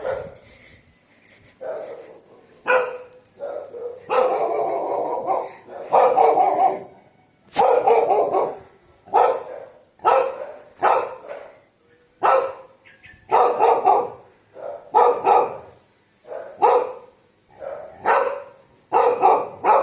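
Dog barking over and over, about one bark a second, some barks coming in quick pairs.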